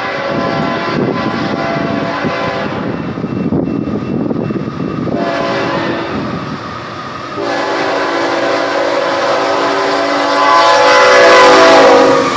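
Locomotive air horn on a BNSF freight led by ET44C4 No. 3982, sounding a chord in long blasts that get louder as the train comes closer and are loudest near the end. Train rumble runs underneath.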